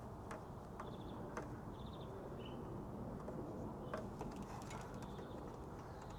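Faint scattered clicks and taps of small fuel-line fittings being handled, with a few short high chirps between about one and two and a half seconds in.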